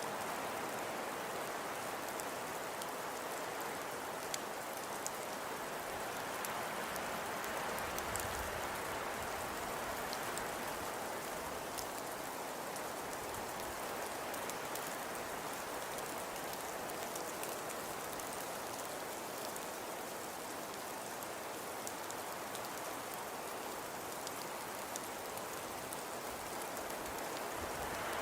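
Steady patter of falling snow on a surface: a dense, even hiss with scattered tiny ticks.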